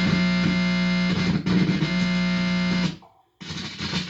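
Loud steady electrical buzz from a guitar amplifier picking up interference through a guitar cable held against the body, which the owner takes for directed-energy attacks. It cuts off about three seconds in, then comes back as choppy, stuttering bursts.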